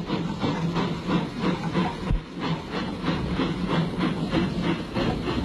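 Steam locomotive working slowly, its steam exhaust beating in a steady rhythm of about three or four beats a second, with a hiss of steam.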